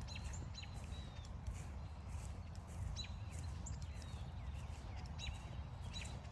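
Footsteps walking along a forest trail, with a songbird repeating a short phrase of quick, sharp high notes three times, about three seconds apart.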